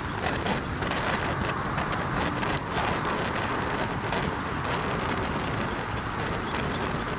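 Campfire burning: a steady hiss with many sharp crackles and pops from the burning wood, scattered irregularly throughout.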